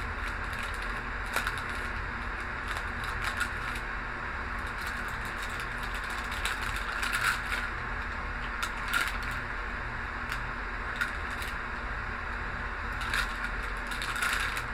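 Sterile glove packaging being handled and unfolded: scattered crinkles, rustles and light clicks over a steady low room hum.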